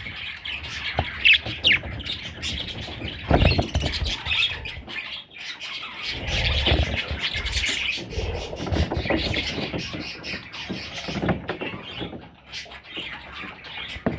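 Budgerigar chicks chirping and squawking over and over, with a few low bumps mixed in.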